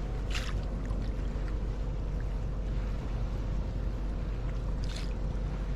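Steady low rumble of wind and water around a kayak, with two brief splashes of the paddle, one just after the start and one near the end.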